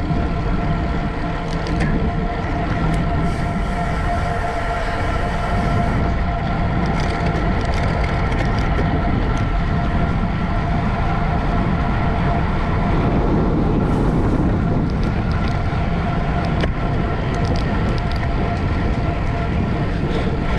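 Steady rushing noise of a bicycle race in motion, likely wind and tyre and drivetrain noise, with a faint steady hum and scattered light clicks.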